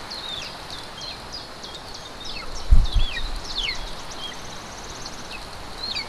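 High, thin bird calls, many short whistled notes that sweep down in pitch, over a steady outdoor hiss. A buzzy trill comes about five seconds in. Two dull thumps just before three seconds in are the loudest sounds.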